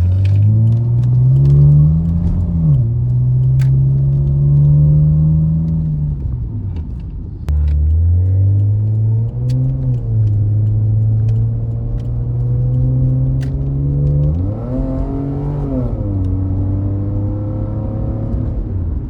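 Nissan Skyline R34 sedan running through its new Reinhard cat-back exhaust while driving: the engine note climbs under acceleration, holds, and drops off, then cruises steadily before another short rev-up and fall near the three-quarter mark. The exhaust note is even, with no drone.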